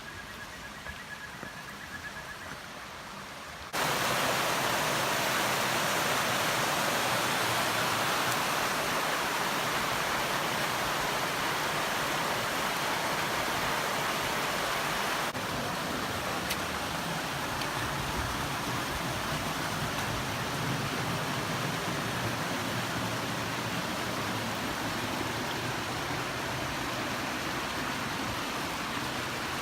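Waterfall: a steady rush of falling water. It jumps abruptly louder about four seconds in, then drops slightly and turns deeper a little past halfway.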